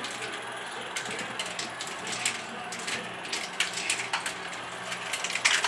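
Motorized ROKR wooden marble run running: marbles clicking and clattering irregularly along the wooden tracks over the steady hum of the motor-driven lift gears, with a busier run of louder clicks near the end.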